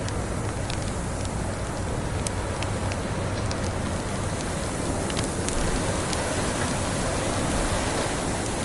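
Log fire crackling: scattered sharp pops and snaps over a steady hiss and low rumble.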